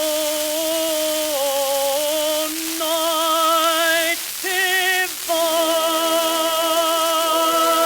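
Music played from an early acoustic shellac record: a slow melody of long held notes with vibrato. Its tone is cut off in the treble, over a steady record-surface hiss.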